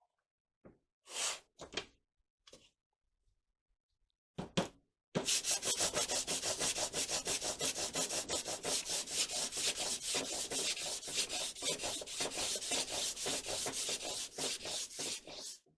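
Hand sanding with sandpaper: a few separate strokes at first, then from about five seconds in a fast, steady back-and-forth rasping that stops just before the end.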